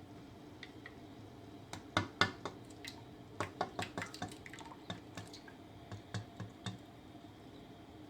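Irregular light metallic clicks and knocks, a couple of dozen over about five seconds, from hand tools and bolts being handled while working on the differential cover.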